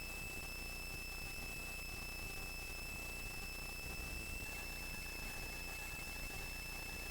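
Helicopter cabin noise in flight: a steady high-pitched whine over a low hum, with no change in pitch or level.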